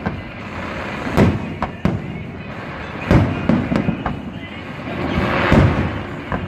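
Fireworks going off: a series of sharp, loud booms a second or so apart, with a burst of crackling near the end.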